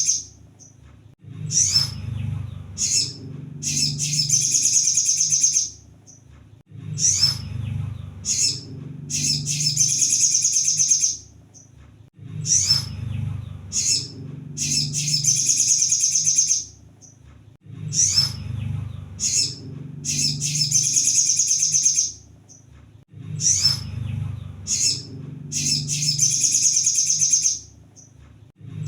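Sunbird (kolibri sogon) song on a loop: a few short high chirps followed by a fast, high trill of about two seconds, the same phrase repeating about every five and a half seconds, with a low hum underneath.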